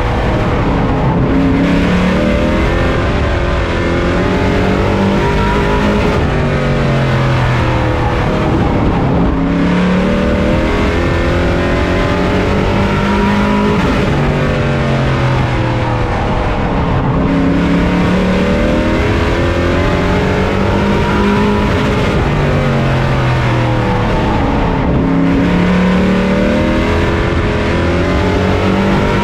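Race truck's engine at racing speed, heard on board. The revs climb steadily, then drop sharply and pick up again about every eight seconds, four times, as the truck lifts for the corners and accelerates out of them.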